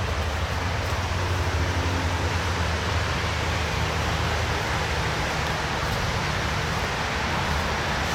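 Steady vehicle noise: a constant low hum under an even hiss, with no distinct events.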